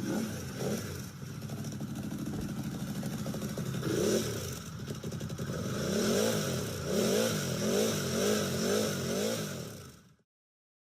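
Ducati Monster SP's L-twin engine running, then revved up and down over and over in the second half, its pitch rising and falling about once a second. It cuts off suddenly near the end.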